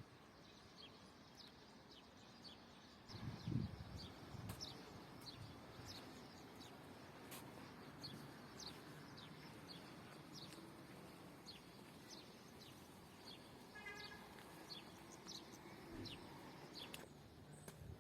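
Small birds chirping faintly, short high chirps about twice a second, with a brief trill a little before the end. Under them is a low rumble that starts about three seconds in with a single knock.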